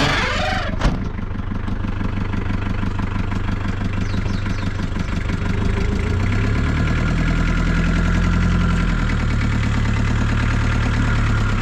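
Muscle car's engine, just started, idling with a steady even pulse. A sharp click comes about a second in, and the engine runs a little stronger from about six to nine seconds before settling.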